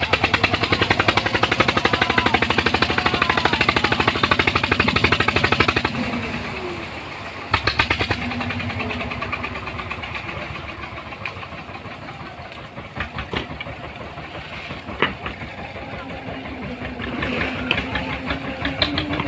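An engine running close by under varying load, its firing pulses loud for the first several seconds, easing off in the middle and building again near the end. Voices can be heard faintly underneath.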